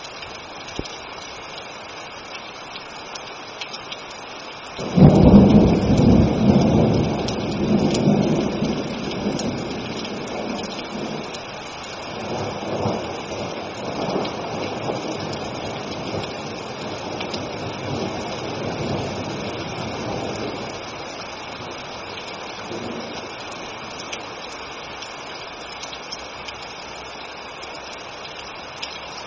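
Steady rain falling, with a thunderclap breaking about five seconds in and rumbling on in rolling waves for some fifteen seconds before fading back to the rain alone.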